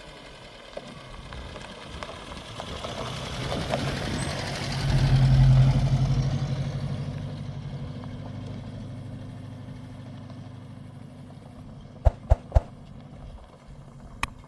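A motor vehicle engine running, growing louder to a peak about five seconds in and then slowly fading, as if passing by. A few sharp clicks near the end.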